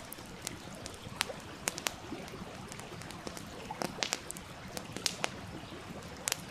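Campfire crackling, with sharp irregular pops and snaps over the steady rush of a stream.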